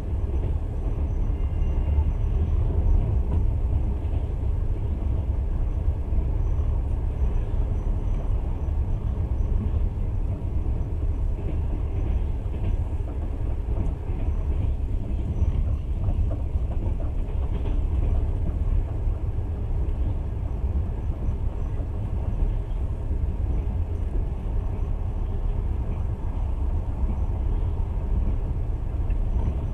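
Passenger train running along the track, heard from inside the carriage: a steady low rumble of wheels on rails.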